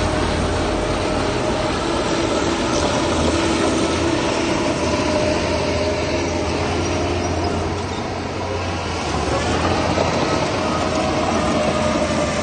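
Heavy diesel earthmoving machinery running steadily, with a steady whine over the engine noise. The sound dips briefly about eight seconds in.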